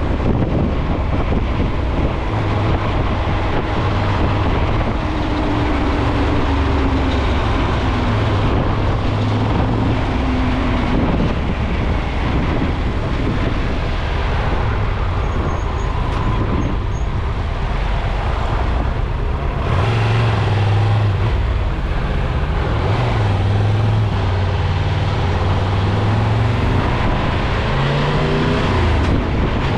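A motor vehicle driving, its engine running steadily with wind rushing over the microphone; the engine note falls and rises a few times.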